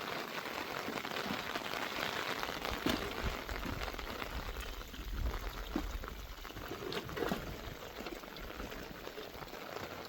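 Heavy rain falling: an even hiss with many irregular drop hits.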